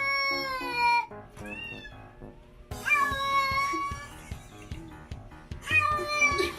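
Domestic cat meowing about four times, long drawn-out meows with one short one between, over background music with a steady beat.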